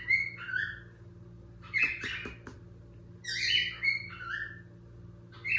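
A bird chirping in short, high calls that come in clusters every second or two, over a steady low hum.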